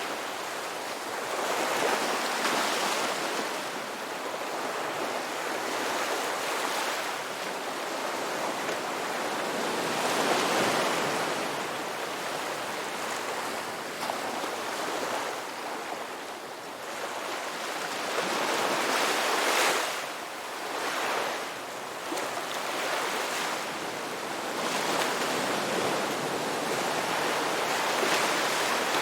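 Ocean waves breaking and washing on the shore, a steady rush that swells and falls every few seconds as each wave comes in.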